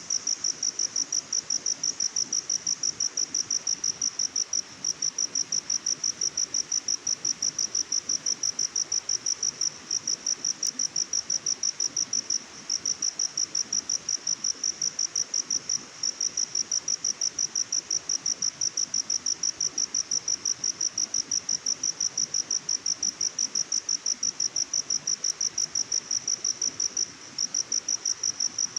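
Cricket chirping: a high-pitched, rapid and evenly pulsed call that breaks off briefly a few times and resumes.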